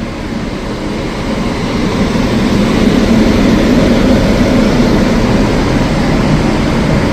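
Train noise at a station platform: a steady rumble that swells over the first couple of seconds and then holds.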